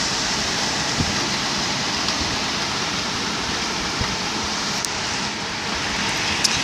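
Heavy rain pouring down in a storm, a steady hiss with a few sharp taps of drops striking close by.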